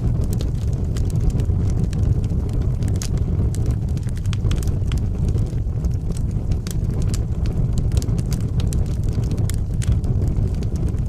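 Wood fire burning in a fireplace: a steady low rumble of the flames with frequent, irregular crackles and pops of the burning wood.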